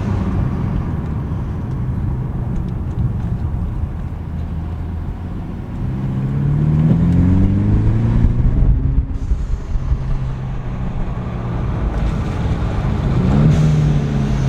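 Exhaust of a 2018 Mercedes E300's turbocharged four-cylinder, run through opened QTP exhaust cutouts, heard from inside the cabin while driving. It drones steadily, climbs in pitch under acceleration about six seconds in, drops at a gear change around nine seconds, and climbs again near the end.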